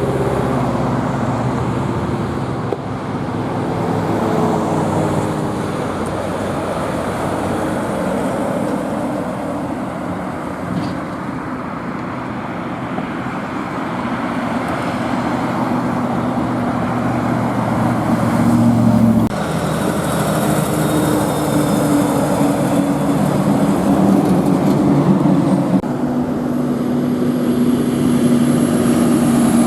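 Road traffic with heavy trucks going by: steady engine drone over tyre and road noise. The engine tone changes suddenly about two-thirds of the way through as a different vehicle takes over.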